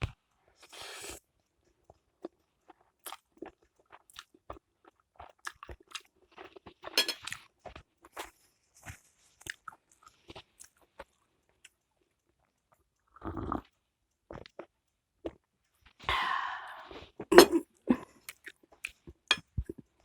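Close-miked mukbang eating of spicy hot pot instant noodles: wet chewing and crunching with many small mouth clicks, a couple of short hissing slurps, one about a second in and another around sixteen seconds, and a low thump near thirteen seconds.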